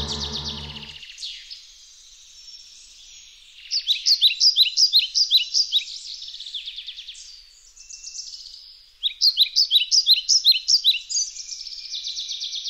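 A songbird singing in fast runs of quick, repeated high chirps, loudest about four seconds in and again about nine seconds in. A low droning tone fades out about a second in.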